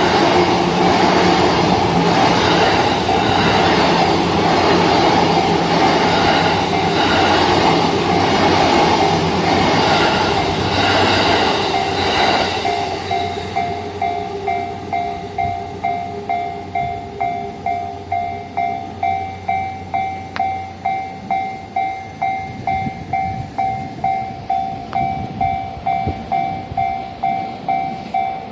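An electric commuter train runs over a level crossing, its wheels clattering over the rail joints about once a second, and passes by about halfway through. The crossing's electronic warning bell keeps ringing at about two dings a second.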